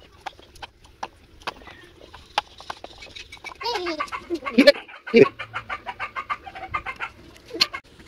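A bird calling in a quick run of chirps and calls from about three and a half seconds in, loudest near the middle of the run. Light clicks of a small knife cleaning ackee arils over plastic bowls are scattered through it.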